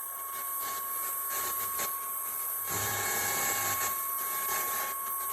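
Dibea FC20 cordless stick vacuum running: a steady high electric-motor whine with a rush of air from its exhaust vents, which blow out a lot of air.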